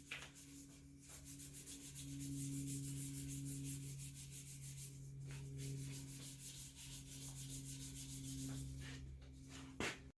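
Hand sanding with 1200-grit sandpaper: rapid back-and-forth rubbing strokes over a steady low hum, with a sharp tap near the end.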